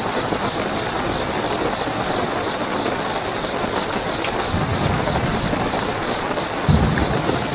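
Steady heavy rainfall with a continuous high-pitched cricket trill over it. Two brief low rumbles cut through, the second, near the end, the loudest moment.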